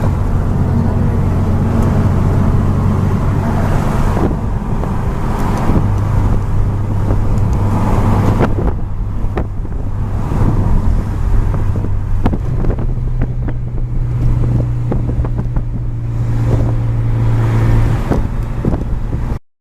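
Modified 2007 Honda Civic Si's four-cylinder engine running through an aftermarket exhaust and header as the car drives, a steady drone that steps up a little in pitch about twelve seconds in. A scatter of short clicks comes in the middle, and the sound cuts off abruptly just before the end.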